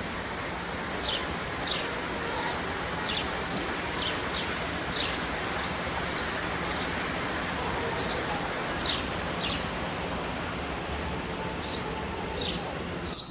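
Steady outdoor rushing noise, with a bird repeatedly giving short, high, downward-sliding chirps, about one or two a second, pausing briefly past the middle.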